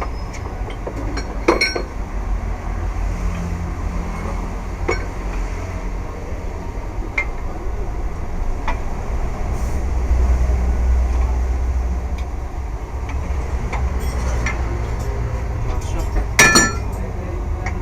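Hand tools and steel parts clinking and clanking against each other, with a ringing clank near the end, during work on a wheel hub for a wheel bearing replacement. A steady low hum runs under it.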